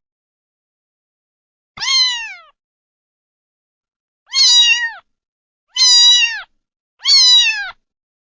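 Domestic cat meowing four times, each meow falling in pitch: one about two seconds in, then three close together in the second half.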